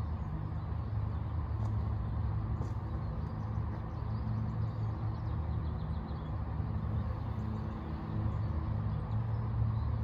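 A steady, low engine hum that swells and fades slowly, like a vehicle running nearby.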